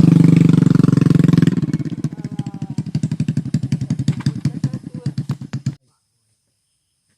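Motorcycle engine running, then dropping to a slower, uneven idle about a second and a half in, and cutting off suddenly near the end.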